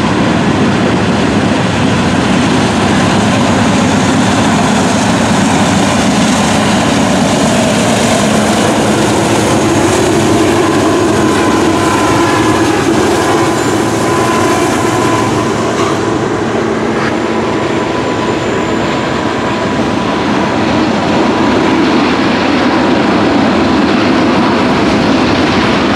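Long freight train rolling past, with a steady rumble and clatter of car wheels on the rails. About ten to fifteen seconds in, a pair of Union Pacific diesel locomotives running in the middle of the train go by and thicken the low rumble, before the autorack cars follow.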